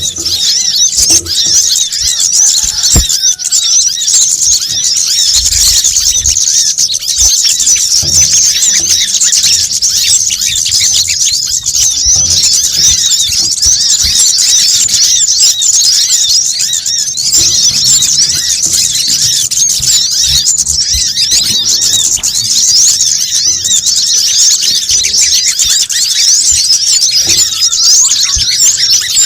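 Dense, unbroken chorus of rapid high-pitched chittering and twittering from a noisy flock of small birds: a bird-lure recording of kemade, sogon and brown-throated sunbird (kolibri kelapa) calls, played to draw these birds in.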